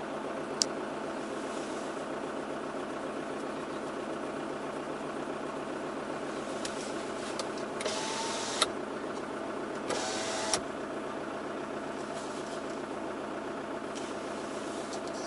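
Off-road vehicle's engine running steadily, heard inside the cab while driving across sand dunes. A sharp click comes about half a second in, and two short bursts of hiss, each ending in a click, come around eight and ten seconds in.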